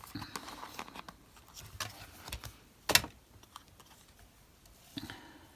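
Light taps, clicks and rustles of card pieces being handled and set down on a craft table, with one sharp tap about three seconds in.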